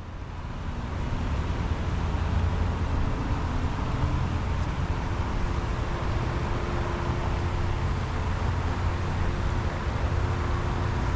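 Steady outdoor street ambience: a low rumble of traffic with a faint steady hum. It fades in over the first second or two.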